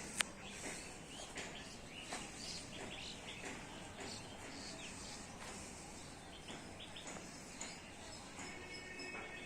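Small birds chirping and calling at irregular intervals over a steady outdoor hiss, with a held, wavering call near the end. A single sharp click comes just after the start.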